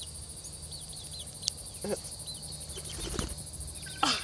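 Steady background chorus of crickets or other insects chirping in a fast pulsing rhythm, with a few faint high peeps and a small click about one and a half seconds in.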